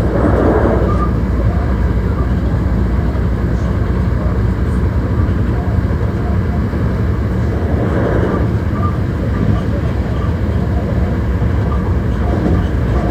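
Hankyu 1300 series electric train running at speed, a steady loud rumble of wheels on rail with swells of noise about a second in, around eight seconds in and near the end.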